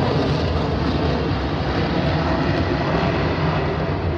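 Jet aircraft in flight during an aerobatic display, a steady rushing engine noise.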